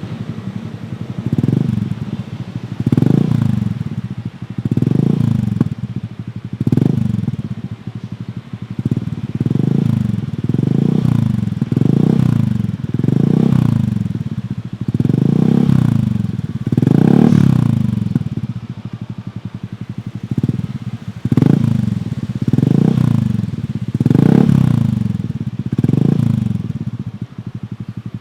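Honda Scoopy's single-cylinder scooter engine revved again and again through a Kenochi Racing Hunter H1 aftermarket exhaust: short throttle blips about every second and a half, each rising then falling back to idle.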